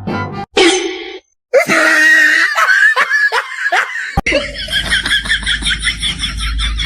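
Laughter, in short pieces cut together, ending in a fast run of giggling pulses.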